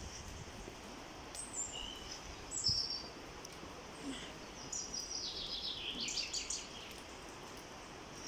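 Small songbirds chirping over a steady outdoor background hiss, with a quick run of falling notes about five seconds in.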